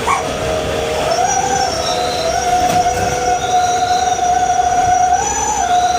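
Truck exhaust whistle ('knalpot serigala', wolf exhaust) howling as the truck drives: one steady whistling tone with higher overtones, its pitch rising slightly about a second in and stepping up briefly about five seconds in.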